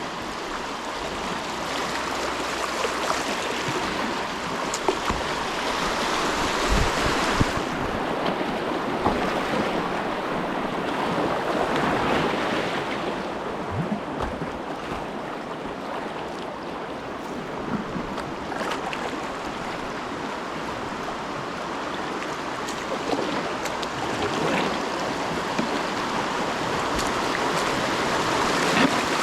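Moving river water rushing and splashing around a whitewater kayak, swelling and easing, with occasional sharp knocks and splashes.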